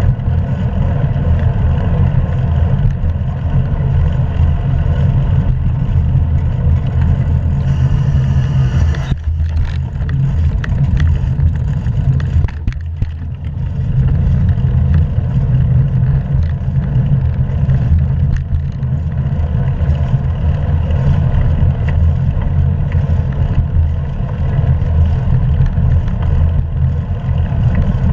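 Wind buffeting a GoPro action camera's microphone during a bike ride, a steady low rumble mixed with road noise. It eases briefly twice, once about a third of the way in and again a little later.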